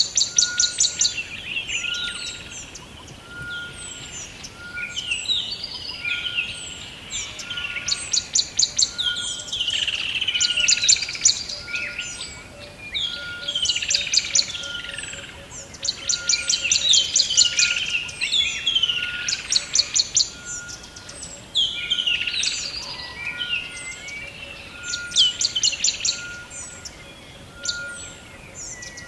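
Several birds singing together. Rapid high trills about a second long recur every few seconds, with warbling, gliding phrases between them and a short, steady, lower note repeated about once a second.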